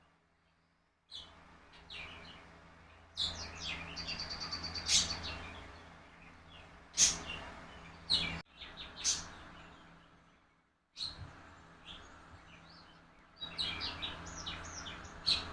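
Small birds chirping in short, repeated calls over a low steady hum. The sound cuts out briefly a few times.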